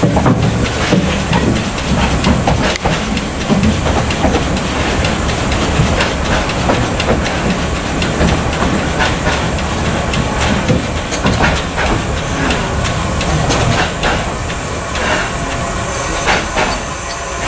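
Narrow-gauge steam train: a steady steam hiss over a low rumble, with scattered irregular clicks and clanks.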